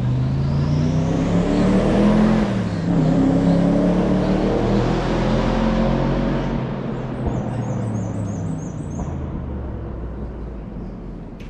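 A hillclimb race car's engine revving hard under acceleration as the car passes. It shifts up about two seconds in, then pulls away up the hill and fades.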